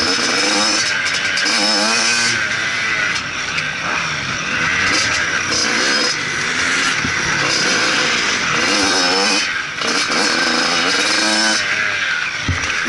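Motocross bike engine revving hard, its pitch rising and falling again and again as the rider accelerates and backs off, over a steady rushing noise.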